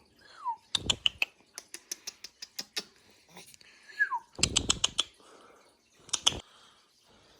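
Wild parrots calling with short falling whistles, one just after the start and one about four seconds in. Quick runs of sharp clicks, taps and flutters come between the calls, the loudest clusters about a second in, halfway through and near six seconds.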